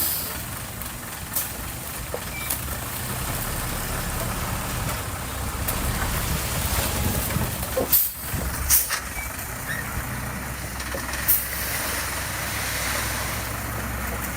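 Diesel earthmoving machinery running steadily, with a few sharp metallic clanks about halfway through and again a few seconds later.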